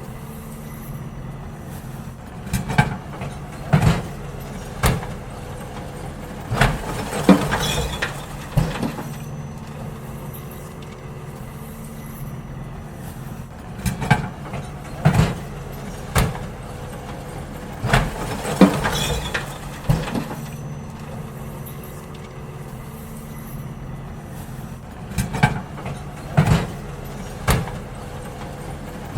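Garbage truck engine running with a steady low hum, while waste bins are emptied into it: clusters of clanks and bangs recur five times, every few seconds.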